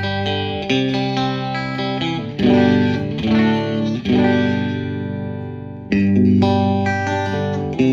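Fender Stratocaster electric guitar through an amp on the bridge-and-middle pickup combination, the out-of-phase setting, playing a run of strummed chords; one chord rings out and fades from about four seconds in until the next chord strikes about six seconds in.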